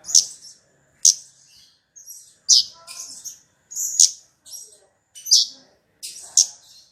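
A small songbird, the kemade of a bird-luring recording, giving short, sharp, high chirps about once a second, each followed by a fainter note.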